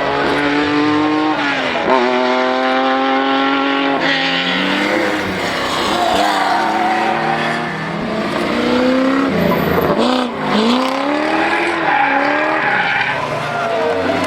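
A historic rally car's engine revving hard, its pitch climbing through a gear and dropping sharply at a shift about two seconds in, then lifting off and picking up again near ten seconds. Tyre squeal is mixed in as the car slides.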